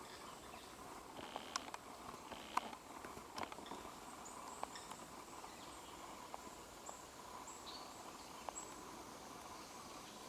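Female great spotted woodpecker pecking at a konara oak branch: faint single taps of bill on wood at irregular intervals, a few seconds apart at most, loudest in the first three seconds. Faint short high chirps sound behind them.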